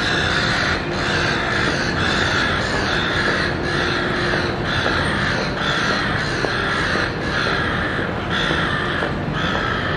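Silver gulls calling with harsh, repeated squawks, a bit more than one a second, in a steady run over a low background rumble.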